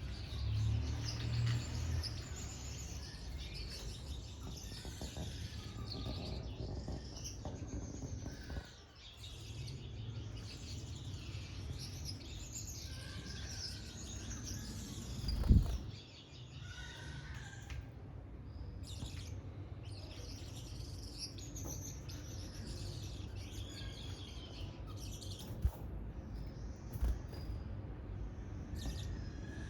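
Small aviary birds, finches among them, chirping and twittering together in many short overlapping calls. There is a low rumble in the first couple of seconds, and a single dull thump about halfway through.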